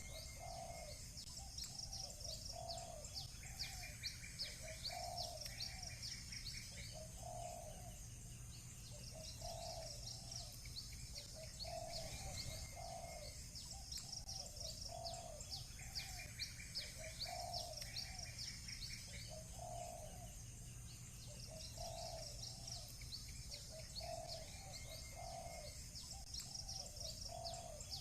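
Doves cooing over and over in short phrases, with small birds chirping in rapid, recurring bouts of high notes, over a steady low background rumble.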